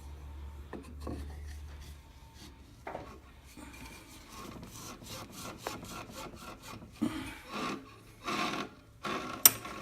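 Wooden dowel and lathe parts being handled: scattered clicks and taps, then several rubbing, scraping strokes of wood against metal near the end, with one sharp click.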